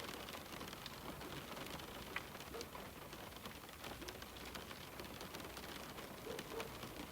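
Steady rain pattering on a window, a constant hiss with many small scattered drop ticks.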